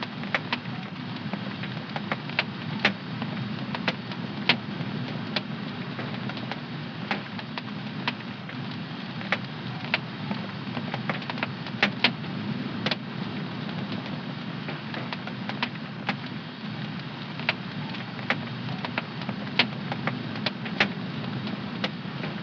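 Wood fire burning in a home fireplace, crackling steadily with irregular sharp pops, a cluster of louder ones about halfway through.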